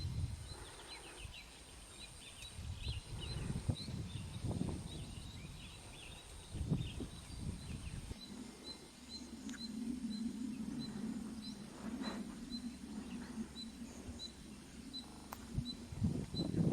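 Forest ambience. Rapid high chirps in the first few seconds give way to a steady high ticking call about twice a second, from an insect or bird. Under it a low rumble changes about halfway into a steady low hum, with a few soft thumps.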